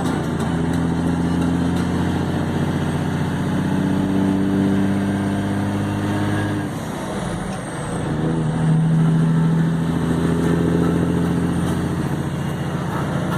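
1980 Kenworth truck's diesel engine running under power; its steady note breaks off about seven seconds in and picks up again a second later.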